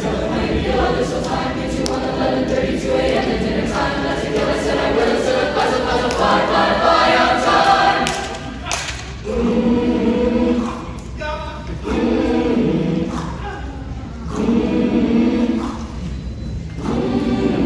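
A concert choir singing in harmony, a full sustained passage at first, then, about eight seconds in, short separate phrases with brief breaks between them.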